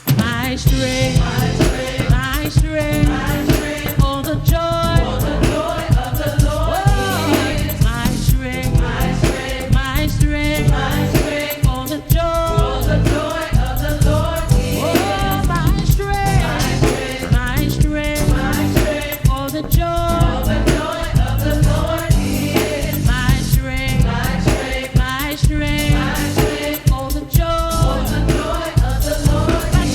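Gospel worship song: singers and a backing choir over a band with drums and bass keeping a steady beat.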